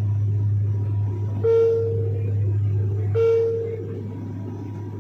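Steady low drone of a small airplane's engine and propeller heard in the cabin, with two identical electronic beep tones about a second and a half apart, each ringing briefly before fading.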